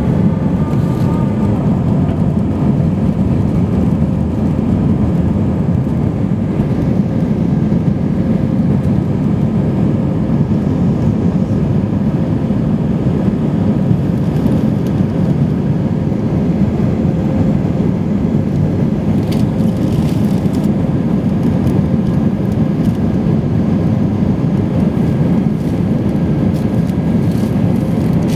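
Steady roar of an Airbus A320-232's engines and airflow heard inside the passenger cabin, with a faint steady hum over the deep rumble and no change in level.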